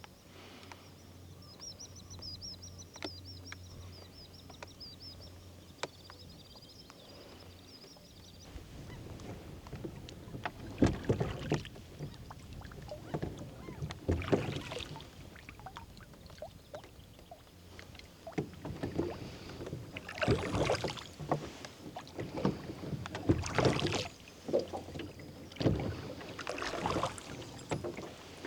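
Oars of a rowboat dipping and pulling through lake water, with a stroke every couple of seconds that starts about a third of the way in. Before the rowing starts, a bird twitters high and faint.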